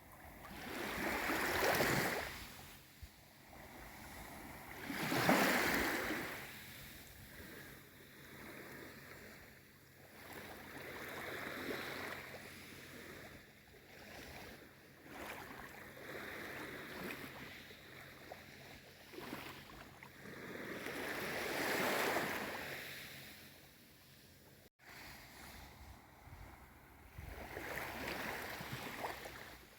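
Small waves of a calm sea washing in, each one a swell of surf that rises and fades over a couple of seconds, with quieter lapping in between. The strongest waves come about two and five seconds in, with further ones at irregular intervals.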